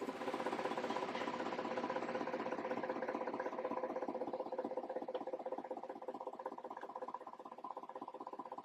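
A machine or engine running with a rapid, even pulse and a steady hum, slowly fading.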